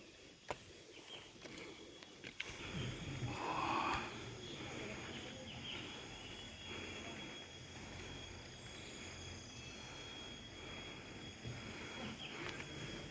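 Forest ambience with a steady high-pitched insect buzz. Footsteps and rustling of people walking on a rocky trail grow louder after a couple of seconds.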